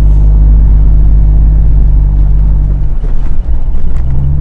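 A vehicle's engine running steadily under load as it drives over soft desert sand, a low, even engine note. About three seconds in it dips briefly, then picks up again.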